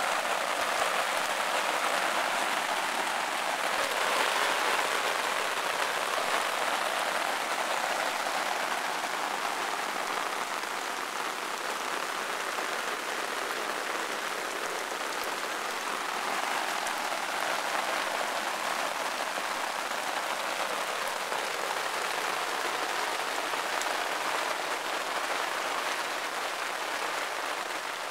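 Monsoon downpour: heavy rain falling steadily as an even hiss, a little louder in the first several seconds and then easing slightly.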